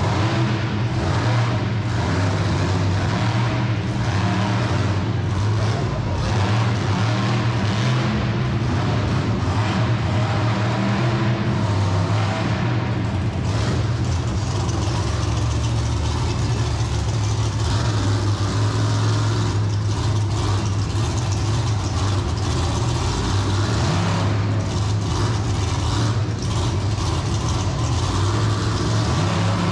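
Monster truck engine running loud and steady under power, with some revving.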